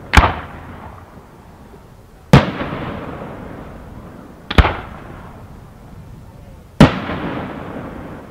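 Fireworks going off: four loud bangs about two seconds apart, the third a quick double. Each trails off slowly over a second or two.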